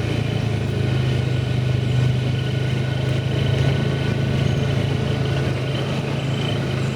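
A motor vehicle engine running steadily, with a constant low hum and a faint steady whine above it.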